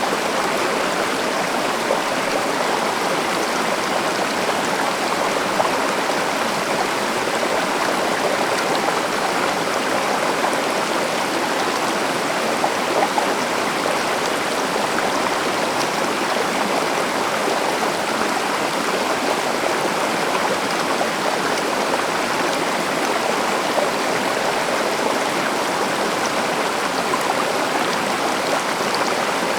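A river flowing steadily, a continuous even rush of water with no breaks or changes.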